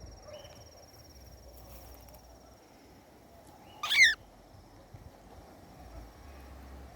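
A cockatiel gives one short, loud, warbling call about four seconds in, with a fainter call near the start. Under it runs a steady thin high-pitched insect drone and a soft background noise.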